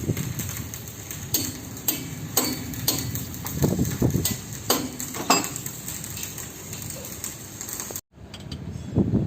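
Metal hand tools clinking and tapping against engine parts in a string of sharp knocks, about one every half second, over a low background rumble; the sound drops out abruptly about eight seconds in.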